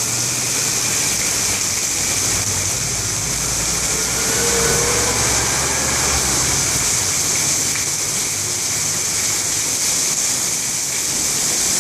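Heavy rain pouring down in a steady hiss. A low rumble runs under it from about a second in until about seven seconds in.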